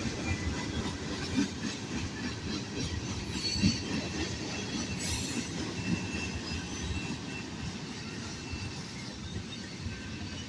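Freight cars of a loaded manifest train rolling past, a steady low rumble of wheels on rail with faint thin wheel squeal.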